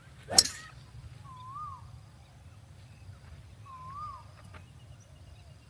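One sharp crack of a golf club striking the ball, about half a second in. A bird's short rising-and-falling whistled call then repeats about every two and a half seconds.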